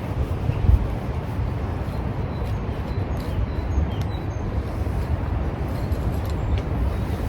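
Strong wind buffeting the microphone: a steady low rumble, with a stronger gust about three-quarters of a second in.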